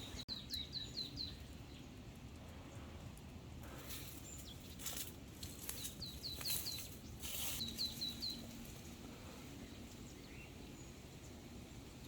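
A small bird singing a short phrase of about five quick, falling chirps, three times over: near the start, about six seconds in and about eight seconds in. Between about four and seven and a half seconds there are several brief rustles, over a steady low outdoor hiss.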